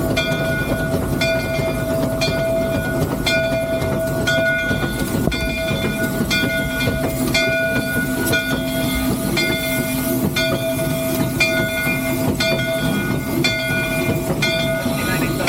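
Three-truck Shay geared steam locomotive running with the train, heard from the cab. A steady whine is joined by higher ringing tones that pulse about once a second.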